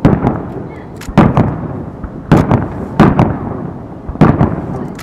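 Aerial firework shells bursting overhead: five sharp booms at irregular intervals of about a second, each followed by a rumbling, echoing tail.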